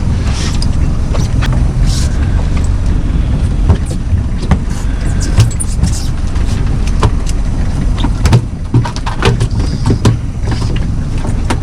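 Fishing boat's motor running steadily with a low rumble while trolling, with scattered knocks and clicks throughout.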